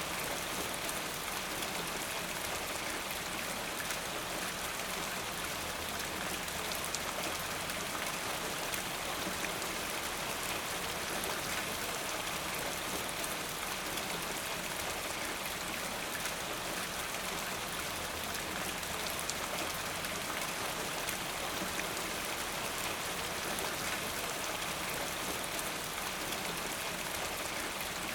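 Steady rainfall with many fine droplets pattering on a surface, an even hiss with no let-up.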